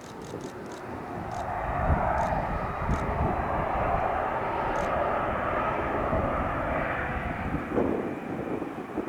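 The twin turbofan engines of an Airbus A300-600ST Beluga at takeoff power: a broad jet rumble that swells about a second in and holds, then gives way near the end.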